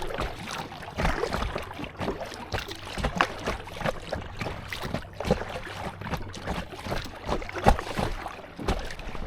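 Choppy lake water splashing and slapping irregularly against a Seago inflatable kayak's hull as it is paddled through small waves, with a sharper slap about three-quarters of the way through.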